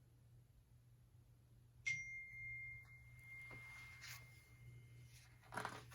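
A single bright chime-like ding about two seconds in, one clear tone ringing out and fading over a couple of seconds. A soft brushing noise follows near the end.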